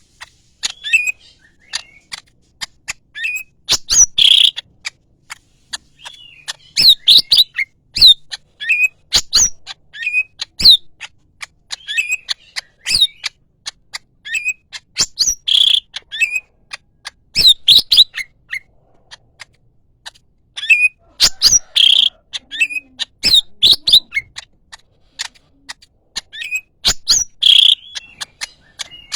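Yellow-headed cucak ijo (green leafbird) singing hard, in a long run of sharp chirps and quick whistled notes that come in clusters every second or two.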